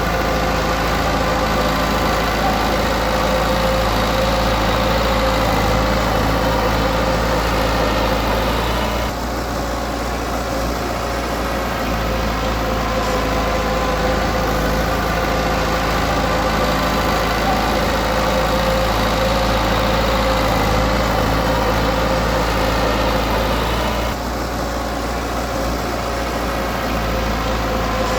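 Diesel engine of a Komatsu D20P bulldozer running steadily under work. It eases off briefly twice, about a third of the way in and again near the end, each time for a few seconds.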